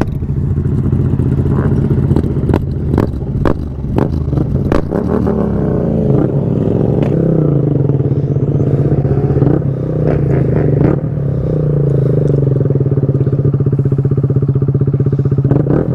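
Motorcycle engine idling steadily, its pitch dipping and rising a little a few times, with scattered clicks.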